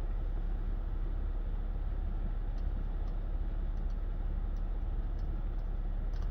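Steady low background rumble with a few faint scattered ticks.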